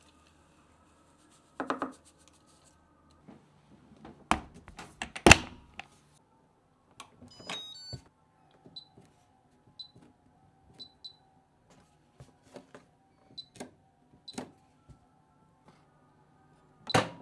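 Household knocks and clatter, then a home appliance's control panel playing a short stepped chime, followed by single short beeps about a second apart as its buttons are pressed. Near the end comes another knock.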